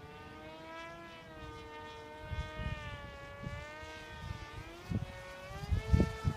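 Electric motor and propeller of a Tuffwing 32 foam flying wing whining in flight, its pitch slowly wavering up and down. Wind buffets the microphone in low thumps in the second half, loudest near the end.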